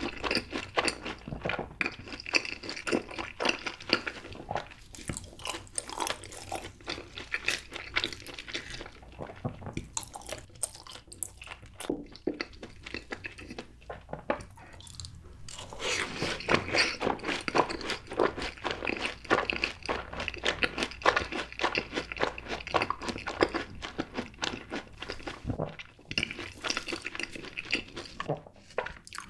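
Close-miked eating of fried cheese balls: crisp crust crunching and crackling under repeated bites and chewing. The crunching eases off for a moment about halfway through, then comes back louder and denser.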